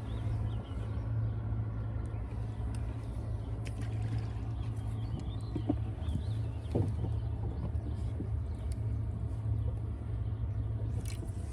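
An engine running steadily with a low hum, with a few faint clicks and knocks about halfway through.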